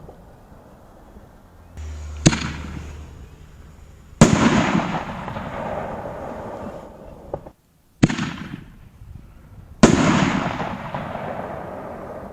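5-inch aerial canister shells firing and bursting: four sharp booms, the second and fourth the loudest, each trailing off in a rumble of about two seconds.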